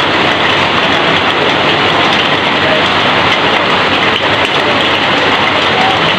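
Heavy rain falling and pouring off a roof edge: a loud, steady, even rush of water noise with no letup.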